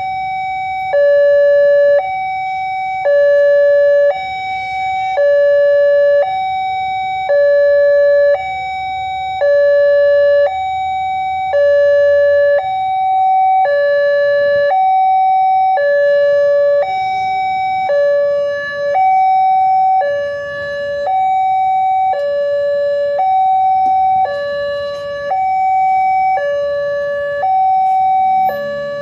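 Railway level-crossing warning alarm sounding a loud two-tone signal, a higher and a lower tone alternating about once a second, warning that a train is approaching.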